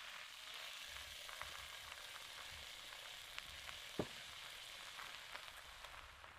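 Onion and carrot sofrito with tomato paste sizzling in a frying pan: a steady frying hiss with small pops, and one sharp click about four seconds in.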